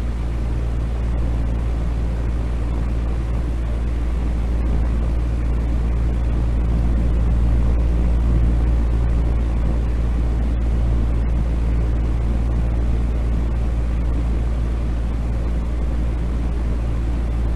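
Steady, deep rumbling noise with a constant low hum underneath, used as sleep noise; it has much more bass than flat white noise, like the drone inside an engine room or aircraft cabin.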